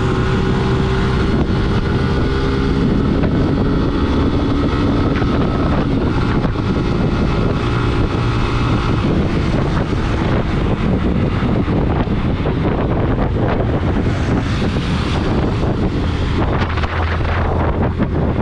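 A motor vehicle running while on the move, its engine pitch shifting in the first half, with strong wind buffeting the microphone.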